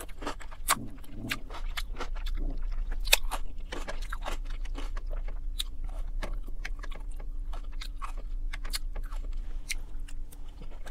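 Close-up chewing of a mouthful of salad: irregular wet mouth clicks and crunches.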